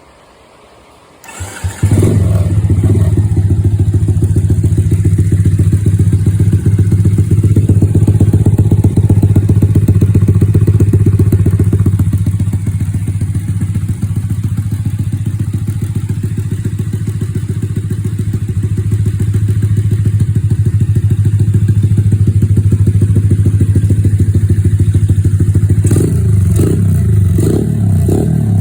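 A Honda Monkey-style mini motorcycle engine starts about two seconds in and then idles loud and steady with a fast, even exhaust beat. Near the end it is given several quick blips of the throttle.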